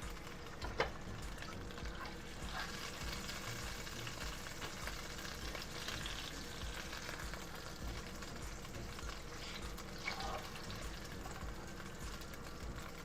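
Chicken thighs frying in hot bacon grease in a pan: a steady sizzle, with one sharp click about a second in.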